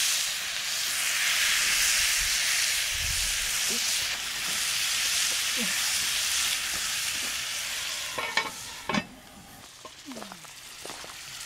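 Diced vegetables and turkey kielbasa sizzling in a cast iron skillet over a campfire as they are stirred. The sizzle then dies down, and two sharp knocks come about a second apart near the end.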